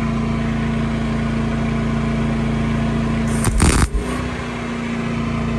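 A steady engine hum, with a short loud burst of noise lasting about half a second, about three and a half seconds in, during welding of a steel hitch mount.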